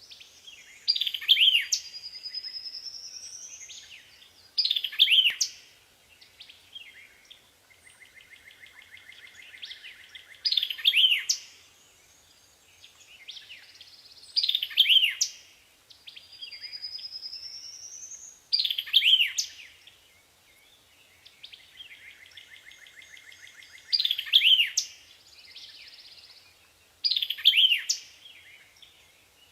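A songbird calling: seven loud, sharp chirps that sweep downward, about every four seconds, with softer rising whistles and buzzy trills between them.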